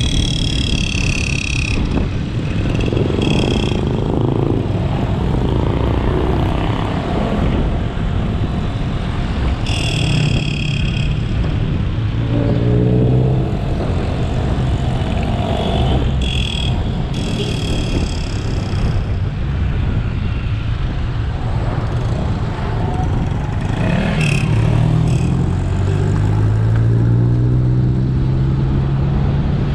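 Motorcycle riding along a road: the engine runs under heavy wind and road noise, and its pitch rises as it accelerates about twelve seconds in and again near the end. Several brief high-pitched tones come and go.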